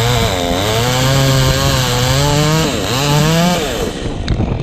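Chainsaw running under load cutting through elm wood, its pitch sagging in the cut and dipping briefly a little under three seconds in, then stopping shortly before the end, leaving wind on the microphone.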